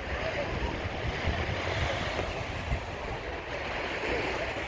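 Ocean surf washing onto the beach, with wind buffeting the microphone in gusty low rumbles.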